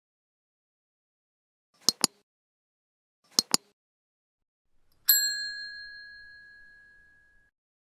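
Two quick double clicks about a second and a half apart, then a single bright bell ding about five seconds in that rings out and fades over about two seconds.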